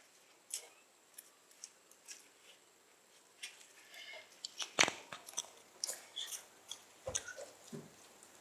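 Scattered light clicks, taps and rustles of slime-making supplies being handled and gathered up, with sharper knocks about five seconds in and again about seven seconds in.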